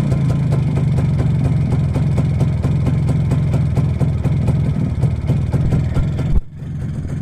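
Two-stroke single-cylinder engine of a restored MZ 150 ES Trophy motorcycle idling with an even, regular putter. The sound drops out sharply for a moment about six seconds in, then carries on a little quieter.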